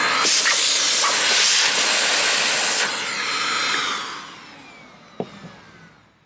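Nilfisk GM80 canister vacuum cleaner running at full suction, then switched off: a few seconds in the rushing noise drops and the motor winds down with a falling whine, fading out. A single sharp click comes near the end.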